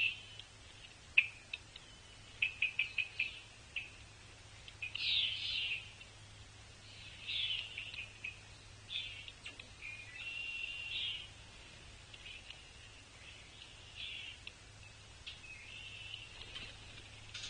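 Wild songbirds calling and singing: a mix of short chirps and longer buzzy calls, with a quick run of about six short notes between two and four seconds in.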